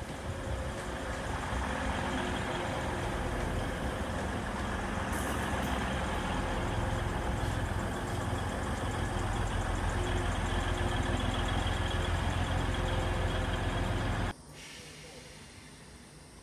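A train's engine running at the platform: a steady low rumble with a hum. It builds over the first couple of seconds and cuts off abruptly near the end.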